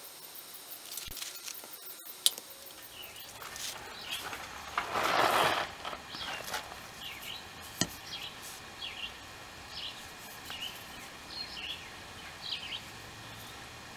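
Outdoor ambience with small birds chirping in short repeated calls. There is a brief burst of rustling noise about five seconds in, and a couple of sharp clicks.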